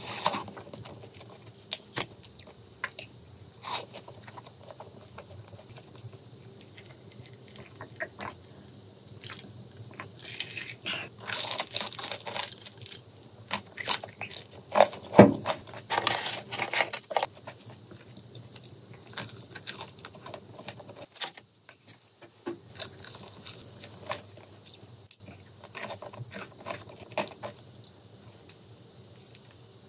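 Close-miked crunching and chewing of cheese-powdered Bburinkle fried chicken: crisp crust cracking in bites and wet mouth sounds, the crunching densest and loudest from about 10 to 17 seconds in.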